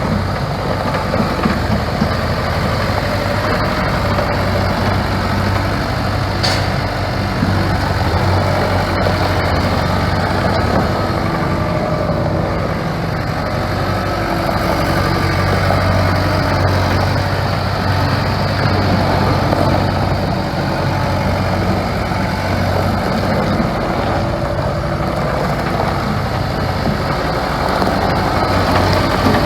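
Case skid steer engine running steadily at an even speed.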